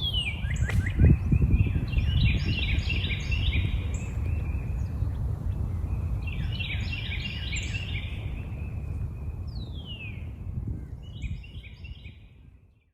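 Small backyard songbirds chirping in quick runs of repeated short notes, in three bouts, with two fast down-slurred whistles, over a steady low rumble of outdoor background noise. The sound fades out near the end.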